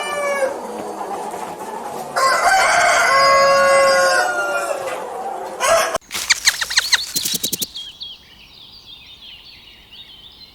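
A rooster crowing: the end of one crow, then a full crow about two seconds in. Near the middle it gives way to a quick run of sharp clicks, followed by faint chirping.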